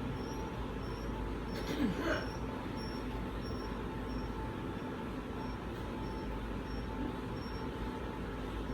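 Steady vehicle running noise, a low rumble with hiss and a faint hum, with a faint high pip repeating about every half-second or so. A brief knock about two seconds in.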